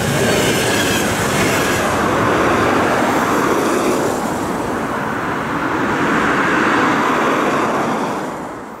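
Passenger coaches of a fast train rolling past at speed and drawing away: the dense noise of steel wheels on the rails, with some clickety-clack. It fades out near the end.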